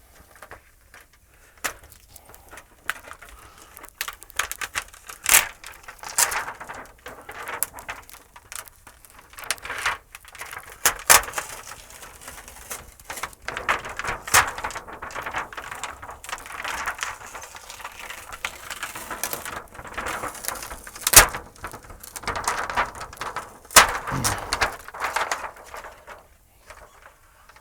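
Irregular clicks, taps and knocks with bursts of scraping and rustling as parts and tools are handled while working inside a television, with a few sharper knocks standing out.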